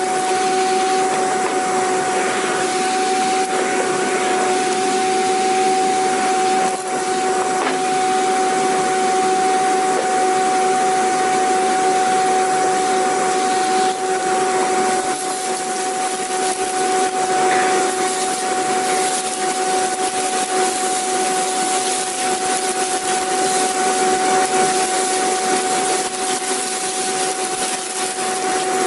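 Vacuum cleaner running steadily: an even rushing hiss of air with a constant whine over a lower hum.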